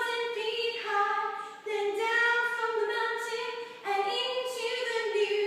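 High voices singing a show-tune melody in long held notes, with little instrumental backing, breaking briefly between phrases twice.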